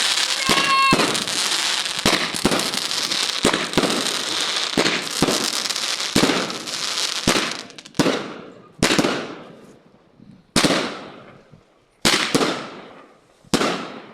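Fireworks going off: a dense barrage of rapid crackling bangs for about seven seconds, then five or six separate loud bangs spaced a second or two apart, each fading out over about a second.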